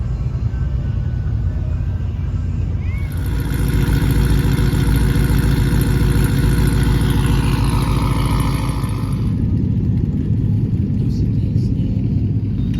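Truck engine rumbling steadily, with a louder, higher many-toned sound laid over it from about three seconds in that stops suddenly about nine seconds in.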